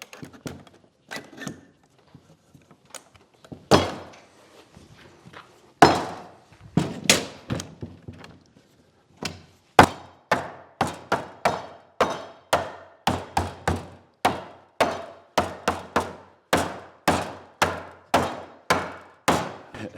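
Hammering on wood as a domino-jointed table base part is knocked together: a few scattered knocks at first, then from about halfway a steady run of about two strikes a second.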